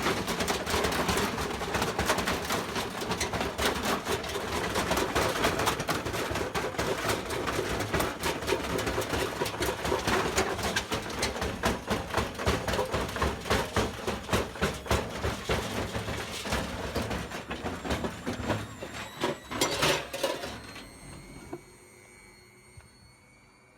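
Washing machine running hard, its drum banging and rattling in a fast, continuous clatter. About twenty-one seconds in the clatter dies away to a faint steady hum as the drive belt gives out.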